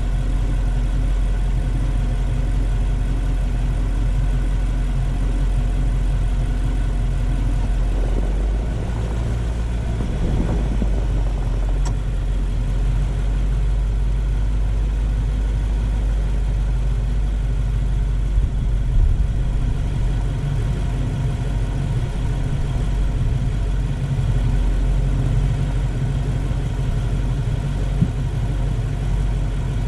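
Car engine running steadily under road noise, picked up by a camera mounted low on the car, with a brief swell of noise about a third of the way in.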